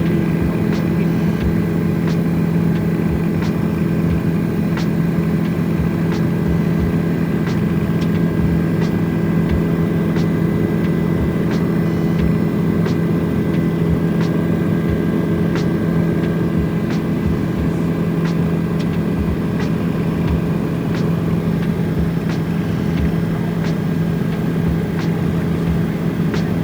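Helicopter in flight: a steady engine and rotor drone, with faint ticks repeating a little more often than once a second.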